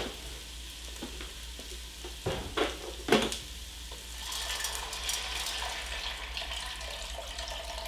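Diced onion and bacon sizzling in bacon fat in an enamelled pot, with a few sharp knocks about two to three seconds in. From about four seconds, water poured from a pitcher into the hot pot adds a denser hiss over the sizzle.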